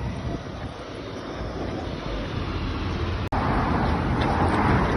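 Road traffic passing, a steady rush of tyre and engine noise with wind on the microphone. It grows louder after a brief dropout about three seconds in, as a vehicle comes by close.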